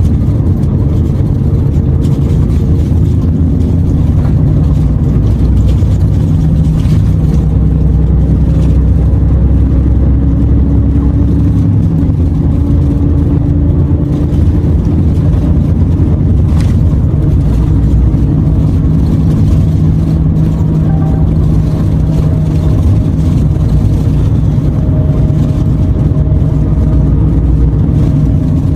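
Renault T480 truck's diesel engine running under way, heard from inside the cab as a steady low drone whose tones shift slightly in pitch as the engine speed changes.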